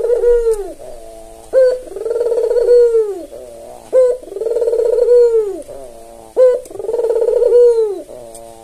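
Albino Barbary dove (puter) cooing. The same phrase repeats about every two and a half seconds: a short sharp note, then a long rolling coo that falls away at the end.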